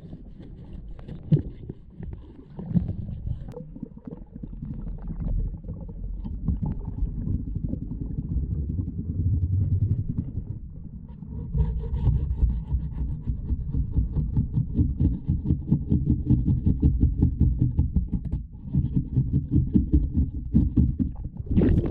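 Muffled underwater scrubbing and scraping of slimy seaweed growth off a sailboat's hull bottom, with water noise; the strokes get busier about halfway through.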